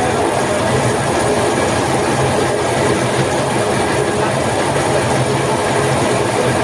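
A workshop machine running steadily and loudly, with a constant low hum under a broad, even mechanical noise.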